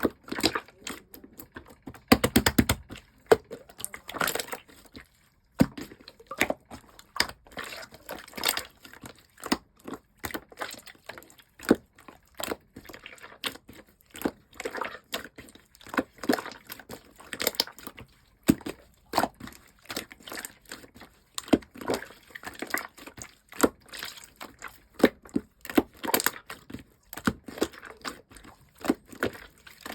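Slime being squished and stretched by hand, making a steady run of irregular sticky clicks and small air-bubble pops, with a brief pause about five seconds in.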